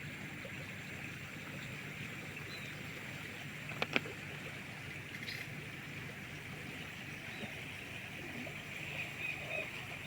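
River ambience: a steady watery hiss over a low hum, with two sharp knocks close together about four seconds in.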